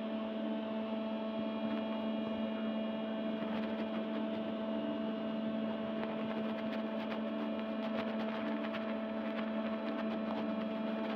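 A steady hum made of several held tones, like mains hum, with faint crackling clicks growing thicker in the second half.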